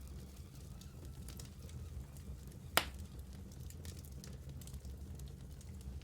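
Wood fire burning in a fireplace, a steady low rumble with scattered small crackles and one sharp, loud pop a little under three seconds in.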